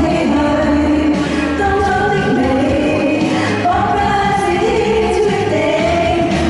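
A pop song being sung, with vocals over a steady instrumental accompaniment.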